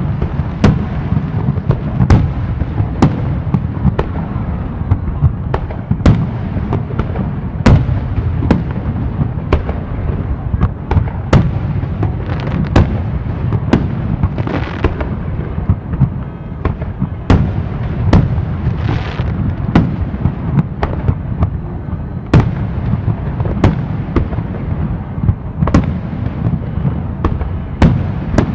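Fireworks display: aerial shells bursting in a steady run of sharp bangs, about one or two a second, over a continuous low rumble. Twice near the middle a crackling hiss lasts about a second.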